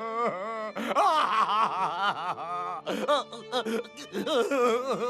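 A character's exaggerated wordless crying and wailing, in repeated rising-and-falling sobs, over background music.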